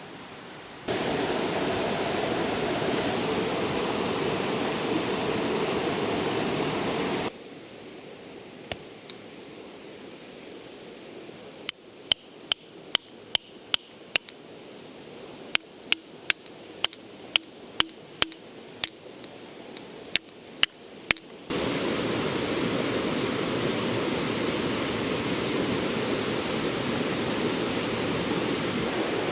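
Steady rush of river water. It drops away abruptly for a quieter stretch in the middle, where a series of about twenty sharp clicks or knocks comes one to two a second, then it returns just as abruptly.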